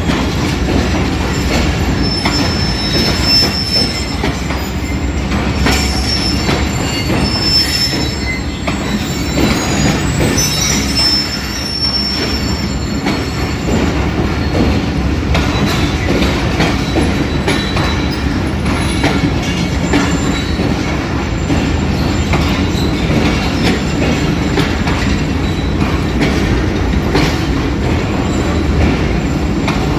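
Passenger train coaches rolling past close by, wheels clicking over rail joints, with high wheel squeals at intervals in the first half.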